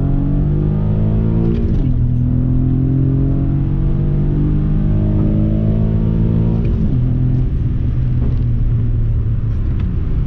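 A 2008 Acura TL Type S's 3.5-litre J35 V6 with a quiet aftermarket full exhaust, heard from inside the cabin, pulling hard under acceleration. The engine note climbs, drops sharply at an upshift about two seconds in, and climbs again. It drops once more near seven seconds in and then holds steadier.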